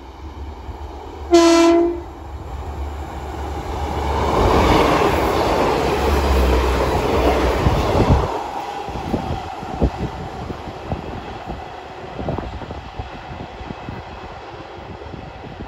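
Passenger train gives one short horn blast as it approaches, then passes at speed: a swelling rush of wheels and air, loudest as it goes by, followed by the clickety-clack of its wheels over the rail joints, fading as it moves away.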